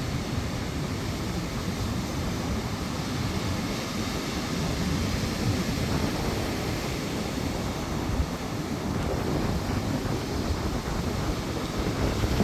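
Sea surf washing ashore in a strong wind, with gusts buffeting the microphone as a steady low rumble.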